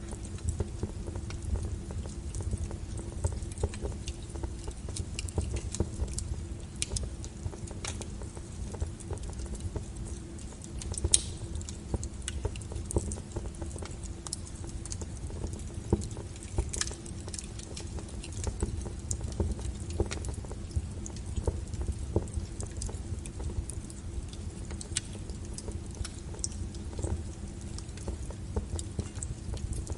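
Wood fire burning, with frequent irregular crackles and pops over a low steady rumble of the flames; the sharpest pops come at about 11 and 17 seconds in.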